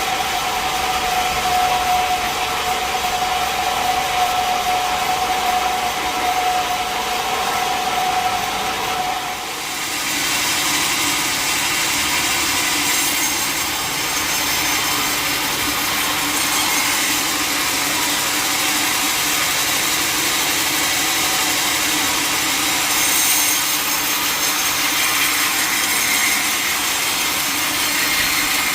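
A sawmill saw running with a steady whine, then biting into a log about ten seconds in and cutting through it with a continuous rough rasping noise.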